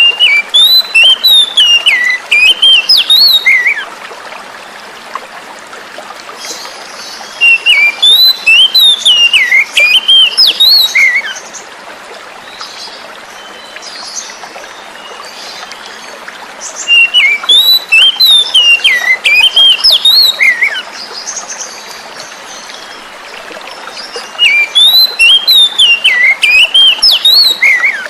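Oriental magpie-robin (kacer) singing: four loud phrases of quick, varied whistled notes, each about four seconds long, separated by short pauses. A steady sound of running stream water goes on underneath.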